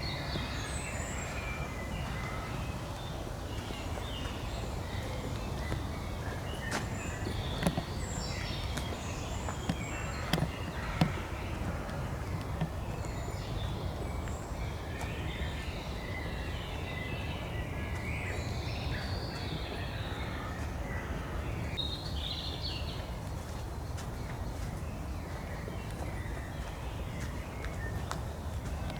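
Forest outdoors: scattered bird chirps and calls over a steady low rumble, with a few sharp snaps or steps.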